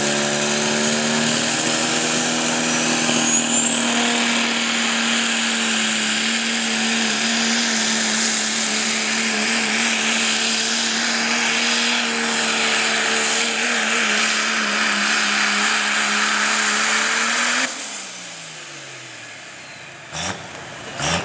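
Diesel pickup truck pulling a sled at full throttle, the engine held at a steady high pitch with a high whistle rising a few seconds in. About three-quarters of the way through it cuts off suddenly and the engine winds down.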